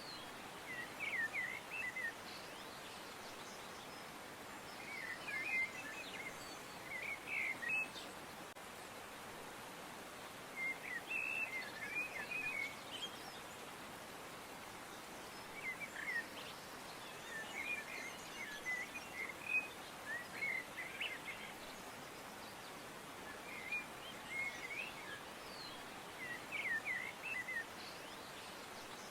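Songbirds chirping in short clusters of quick notes every few seconds, over a steady background hiss.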